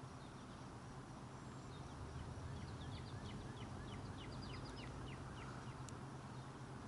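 A small songbird calling a run of quick, high chirps for a few seconds, faint over a low steady hum.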